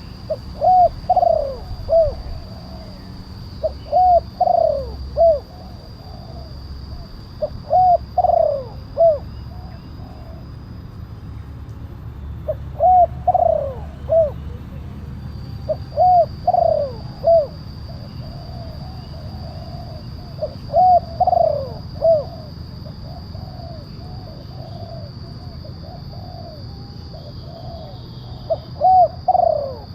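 Spotted dove (tekukur) cooing: loud phrases of three or four coo notes repeated every few seconds, with softer coos in between.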